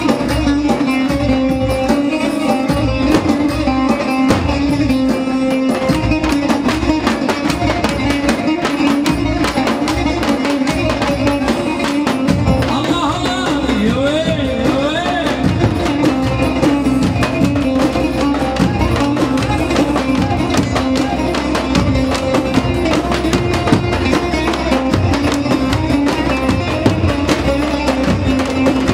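Live Middle Eastern–style Turkish folk dance music from a wedding band: quick, steady hand-drum-like percussion under a sustained melody, with sliding ornamented notes about halfway through.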